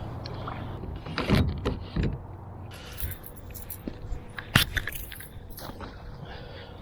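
A few irregular knocks and clicks, the loudest about four and a half seconds in, over a steady low background noise.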